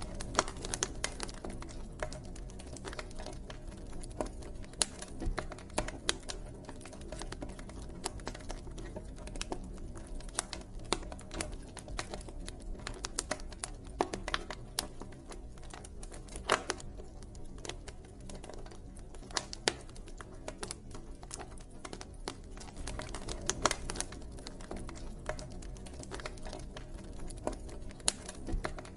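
Wood campfire crackling: irregular sharp pops and snaps of burning wood, a few much louder than the rest, over a steady low rumble of flames.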